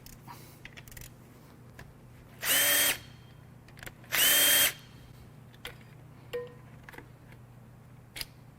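Cordless power tool run in two short bursts, each quickly spinning up to a steady whine, backing out connecting rod cap bolts on a BMW S52 inline-six. A few light clicks of metal parts being handled come between the bursts.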